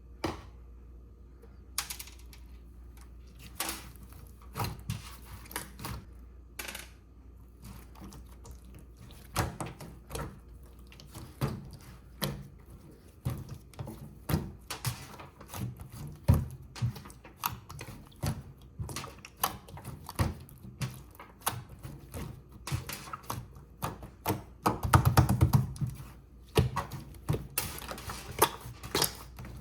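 Irregular clicks, taps and knocks of kitchen utensils and dishes being handled, with a denser burst of handling noise about 25 seconds in.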